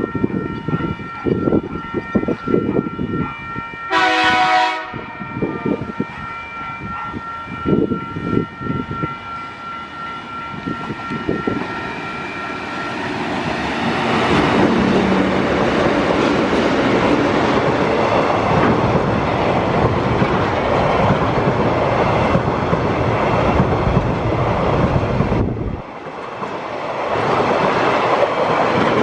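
Diesel freight train locomotives approaching with a steady high whine and a run of knocks, sounding one short horn blast about four seconds in. From about halfway through, the empty log container wagons rush and clack past loudly, with a brief gap near the end.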